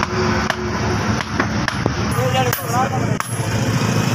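Blacksmith's hammer striking metal on the anvil: about seven sharp, irregularly spaced blows over a steady low hum.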